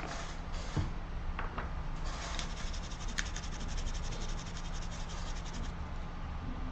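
Rapid repeated scraping strokes of a hand tool against the underfill resin around a phone's circuit-board chip, over a steady low hum. The scraping runs in a quick, even burst from about two seconds in and stops a little before the end.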